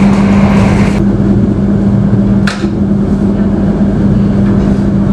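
Passenger train running at speed, heard from inside the coach: a steady rumble of wheels on the rails with a steady hum, and one short sharp noise about two and a half seconds in.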